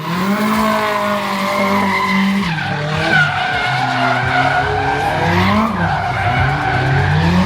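Drift car's engine held at high revs, dropping and climbing again several times, with tyres screeching as it slides.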